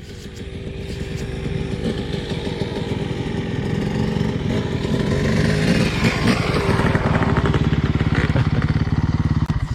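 Dirt bike engine running hard under throttle, its rapid firing pulses growing steadily louder, then cut off suddenly near the end.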